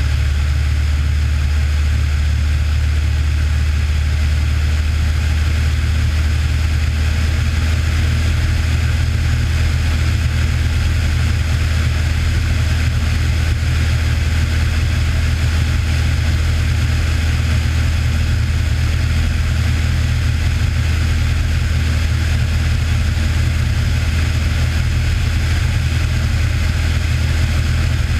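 Cessna 182's piston engine and propeller droning steadily in flight, a deep hum that holds an even pitch throughout.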